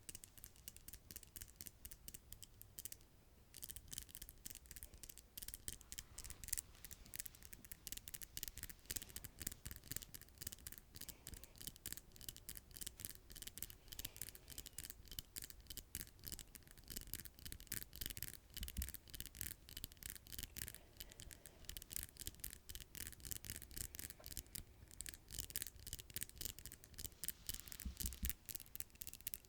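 Freshly manicured fingernails tapping and scratching, a quick, continuous run of light clicks and rubs at a fairly low level.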